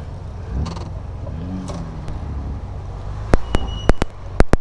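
Triumph Vitesse 2-litre straight-six engine running steadily at low parade speed, heard from the open cockpit. Several loud, sharp knocks come in quick succession near the end.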